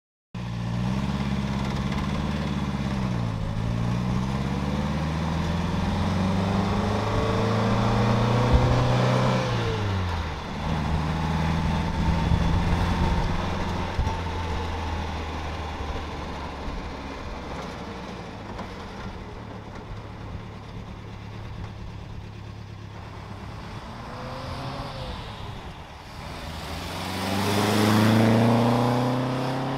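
1958 MG MGA roadster's four-cylinder engine driving off and accelerating, its pitch rising and then dropping sharply at a gear change, then running more steadily and quietly. Near the end it swells to its loudest as the car comes close by, and then fades.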